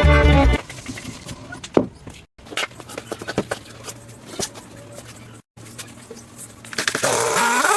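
Violin music cuts off half a second in, followed by scattered light knocks and taps. Near the end a power tool's motor spins up, its pitch rising quickly to a steady whine.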